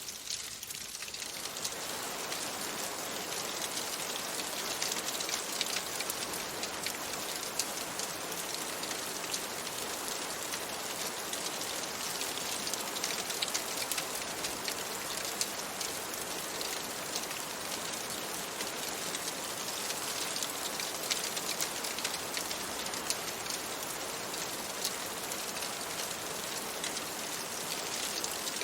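Steady rain falling on a window, a dense even hiss with many fine drop ticks, swelling up over the first second or two.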